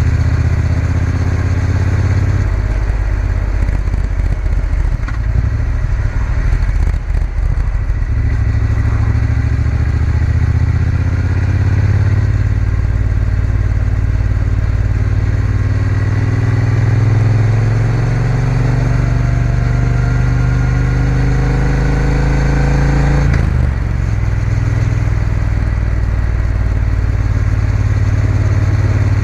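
Triumph Bonneville T120's parallel-twin engine running while the motorcycle is ridden. About halfway through, the engine note climbs steadily for roughly ten seconds, then drops suddenly and settles.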